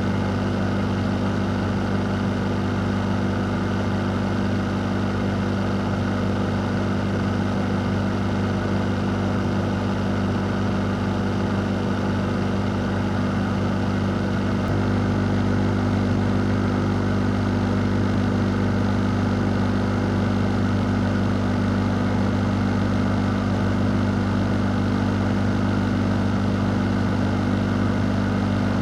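An electric fan running steadily: a low motor hum under an even rush of air. It gets slightly louder about halfway through.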